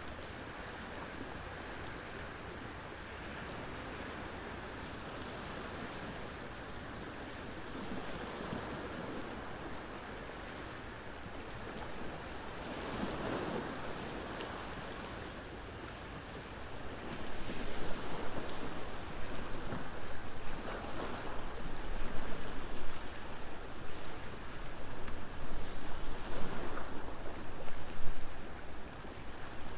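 Ocean waves washing onto the shore under the crackle of a wood bonfire. A wave surges in about halfway through, and in the second half the sound grows louder and more uneven, with many sharp pops.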